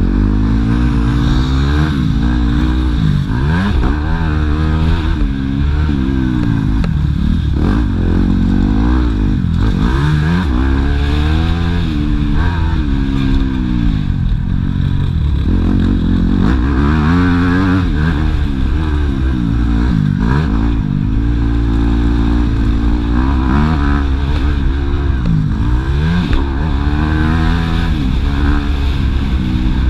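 Yamaha YZ250F motocross bike's four-stroke single-cylinder engine revving hard, its pitch climbing and dropping again every second or two as the rider opens and shuts the throttle, over a constant deep rumble.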